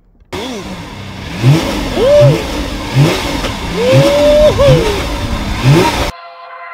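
Lamborghini engine revved in a series of about six quick blips, each sweeping sharply up in pitch and dropping back, then cutting off suddenly near the end.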